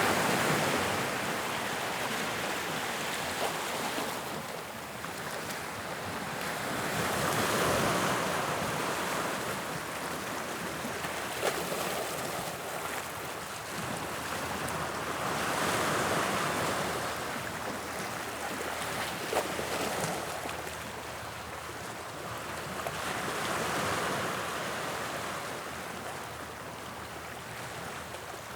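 Sea waves breaking and washing up on the English Channel shore, the surf swelling and falling back in four slow surges about eight seconds apart.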